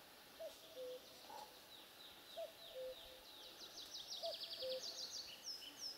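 Faint birdsong: high, downward-sliding notes from a small bird, coming faster and faster into a rapid trill, and a low two-note call, the second note lower, repeated about every two seconds.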